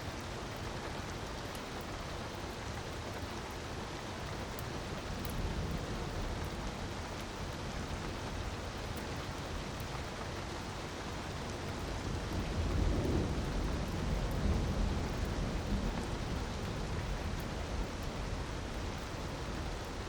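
Steady rushing of a waterfall mixed with faint crackles from a wood fire. A low rumble swells about twelve seconds in and eases off a few seconds later.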